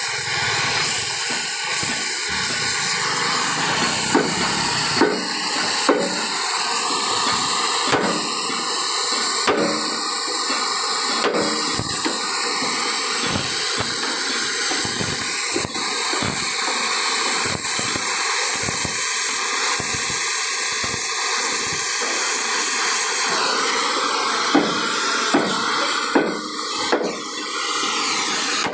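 A steady, loud hiss with irregular sharp knocks every few seconds.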